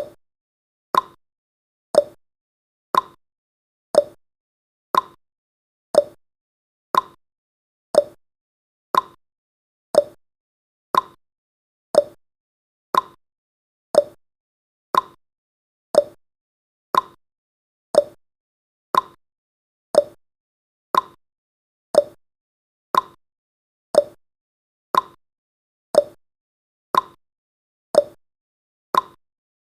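Countdown timer's tick sound effect: a short, sharp tick once every second, evenly spaced, each dying away quickly.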